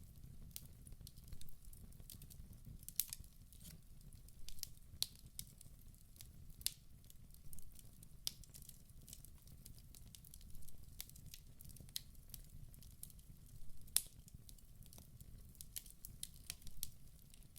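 Wood fire burning in a fireplace: irregular sharp crackles and pops of the burning logs over a low, steady rumble of the flames.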